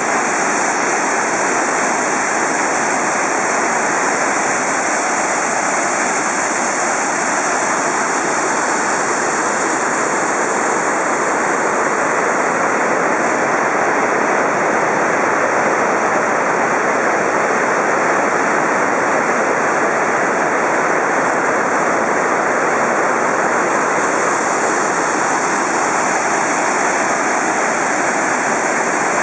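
Fukiware Falls, a broad, low waterfall on the Katashina River, rushing steadily. It is a loud, even roar of falling water that holds unchanged throughout.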